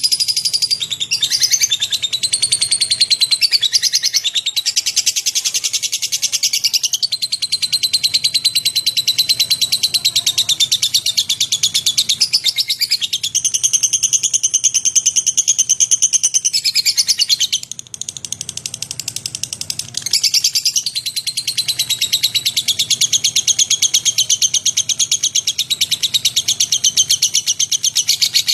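Lovebird (Agapornis) giving one long, unbroken high chattering trill made of very rapid chirps. It weakens briefly about eighteen seconds in, then carries on.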